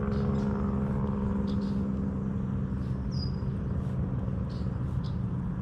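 A steady engine hum, like a motor vehicle running, holding one pitch throughout, with a few short, high bird chirps over it.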